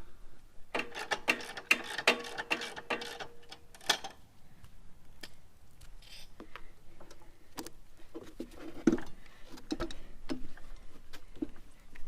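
Irregular clicks, taps and knocks of metal parts and tools being handled during motorcycle front-end work. There is a denser flurry of clicks and rubbing with a brief squeak-like tone in the first few seconds.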